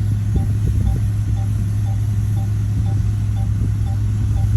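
Bulldozer's diesel engine running steadily under load, a deep even drone. A faint short blip repeats about twice a second over it.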